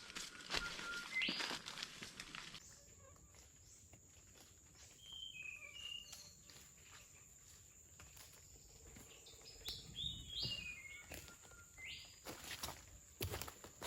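Forest ambience: birds giving short chirps and descending whistles over a steady high-pitched tone, with crunching footsteps on the forest floor in the first couple of seconds and again near the end.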